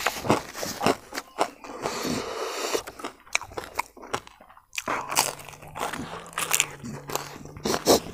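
Close-miked chewing with repeated crisp crunches, from a mouthful of smoked and fried crispy pork intestine.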